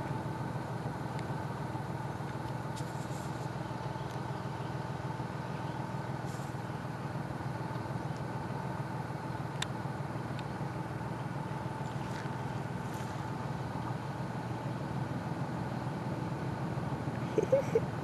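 Motor vehicle engine idling, a steady even hum. A few short squeaky sounds come near the end.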